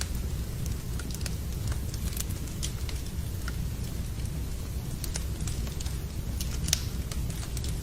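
Wood fire in a fireplace crackling, with irregular sharp pops and snaps over a steady low rumble, mixed with the sound of rain.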